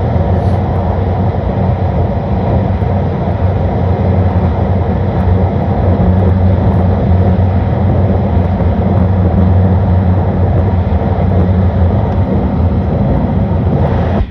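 Shinkansen bullet train running, a steady low rumble under an even rush of noise.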